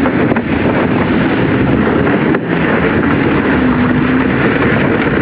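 Kayak hull sliding fast over snow while towed, a steady rushing noise mixed with wind buffeting the microphone.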